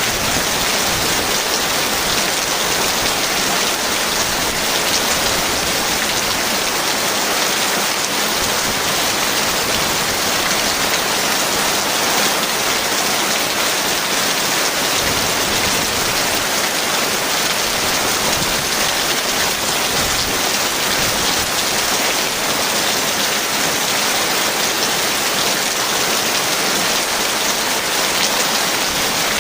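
Heavy rain falling steadily: a dense, even hiss of many drops, with no thunder.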